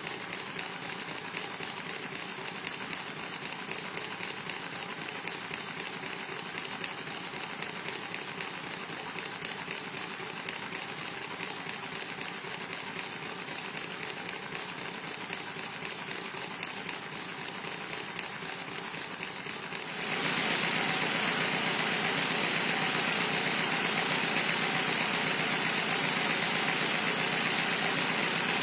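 Steady mechanical running noise from a machine, with a fast, even rattle. It gets louder and brighter suddenly about twenty seconds in.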